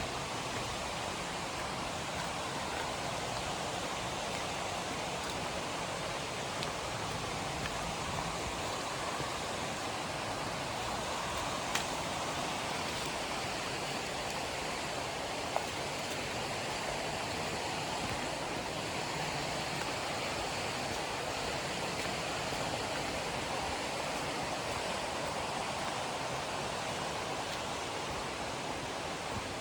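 A river rushing steadily over rocks, an even, continuous flow of running water, with a couple of faint clicks.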